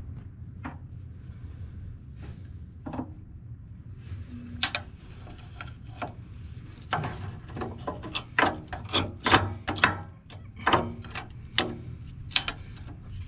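Metal parts of a skid steer's Quik-Tatch attachment coupler clicking, clanking and scraping as the jammed latch is worked by hand, sparse at first and then a quick run of sharp clicks in the second half, over a steady low hum.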